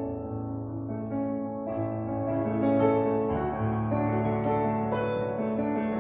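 Slow, gentle piano music, with held chords over sustained low bass notes that change every second or so.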